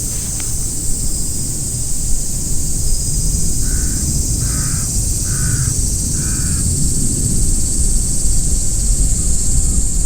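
A crow cawing four times in quick succession, over wind rumbling on the microphone and a steady high hiss.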